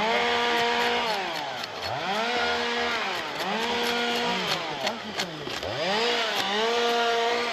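Two-stroke chainsaw revving up to full throttle and dropping back to idle about four times in a row, as in repeated short cuts. Faint sharp clicks run over it.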